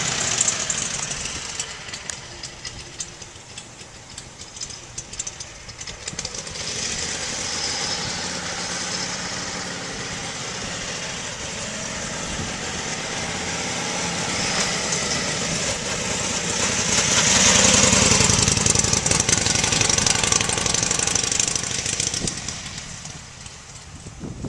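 1941 Harley-Davidson EL Knucklehead V-twin engine running at low revs just after a cold start. It grows louder about two-thirds of the way through, then falls back near the end.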